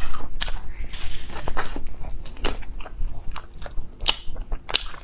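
Close-miked biting and chewing of a soft bread bun, with quick, irregular mouth clicks and crackles several times a second.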